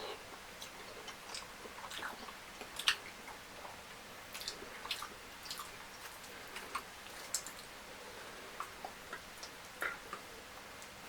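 Close-up eating sounds of someone eating fufu with fried fish curry: irregular wet smacks and clicks of chewing, with one sharper click about three seconds in.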